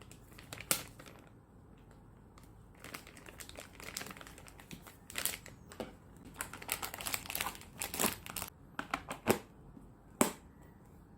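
Packaging crinkling and rustling as it is handled, in irregular bursts with several sharp clicks, the loudest near the start and twice near the end.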